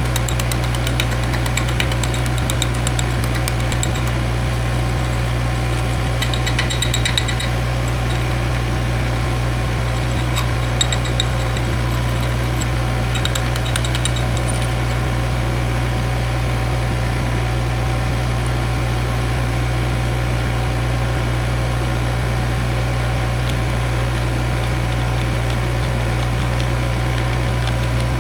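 An engine idling steadily at a constant speed, with a few faint short crackles in the first half.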